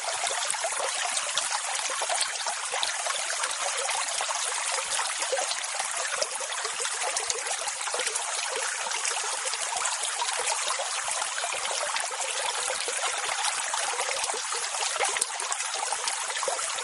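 Water rushing and fizzing in a steady, even hiss with a fine crackle, without the rise and fall of separate breaking waves.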